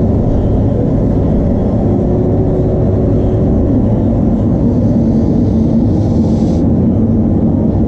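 A loud, steady low rumble with a faint hum of tones, unchanged throughout.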